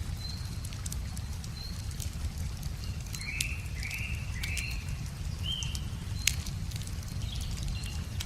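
Wood fire crackling with scattered sharp pops, the loudest about six seconds in, over a steady low rush of river water. Birds sing over it: a run of short chirps in the middle and a thin high note repeating throughout.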